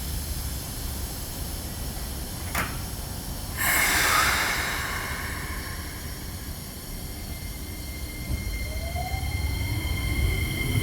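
Keikyu New 1000 series train starting to pull away. There is a click, then a short loud hiss of air, and from about eight seconds in the traction motor whine rises in pitch as the train accelerates.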